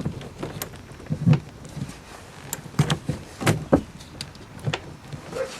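Irregular clicks and knocks, about eight of them, from the boat's steering cable end and transom mount bracket being worked by hand, with metal parts tapping together.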